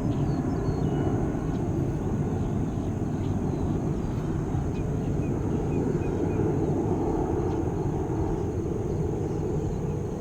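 Steady low rumble of a jet airliner's engines at the airport, running evenly, with a few faint chirps about halfway through.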